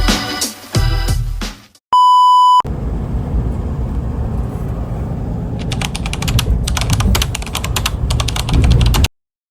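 A reggae song ends. A loud, steady electronic beep follows, held for under a second, then a low rumbling noise with rapid ticking that starts about six seconds in. The noise cuts off suddenly near the end.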